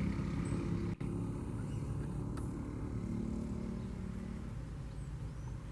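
A low, steady motor hum, easing off slightly after about four and a half seconds, with a brief dropout about a second in.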